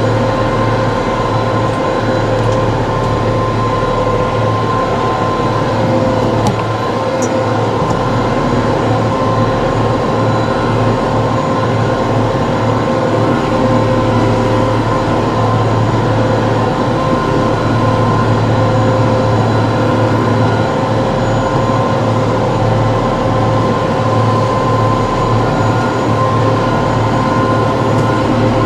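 TYM T654 tractor running steadily: a constant low engine hum with a steady higher whine above it.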